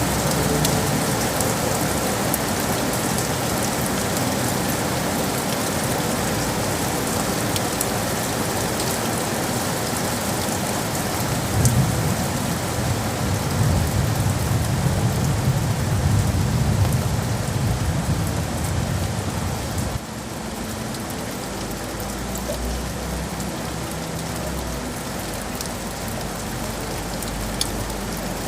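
Steady rain falling on city surfaces. About halfway through, a low rumble swells for several seconds and then cuts off suddenly, leaving quieter rain with a low hum.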